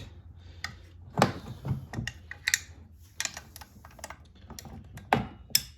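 Ratchet wrench with an 8 mm socket clicking as the lightly torqued crankcase cover bolts of a PowerSmart 170cc OHV engine are loosened, with irregular clicks and small metal knocks.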